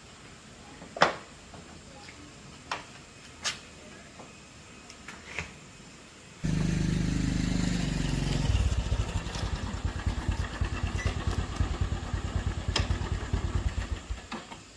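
A few light clicks and knocks, then a motorcycle engine starts suddenly about six seconds in. It runs with a fast, even beat for several seconds and cuts off just before the end.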